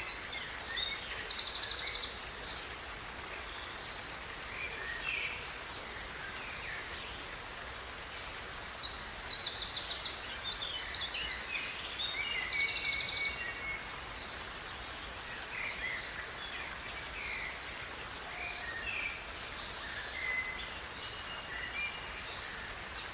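Birds singing over a steady hiss of running water: bursts of fast, high trills in the first two seconds and again from about nine to thirteen seconds in, with scattered shorter chirps between.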